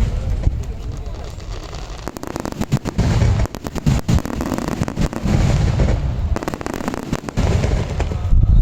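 Aerial firework shells bursting: deep booms, with a quick run of sharp crackling pops about two to four seconds in.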